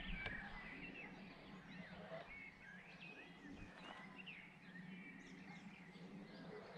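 Faint birdsong: scattered short chirps and quick whistled calls from small birds, over a low steady hum.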